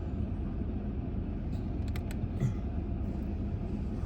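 Vehicle driving on a dirt road: a steady low rumble, with a few light ticks about two seconds in.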